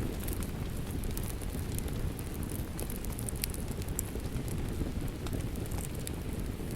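Fireplace fire crackling, with scattered sharp pops, over a steady rush of rain.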